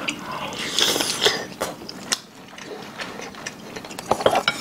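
Close-miked eating: meat being bitten and chewed off braised pork backbone, a dense run of short clicks and crackles, thickest about a second in and again near the end.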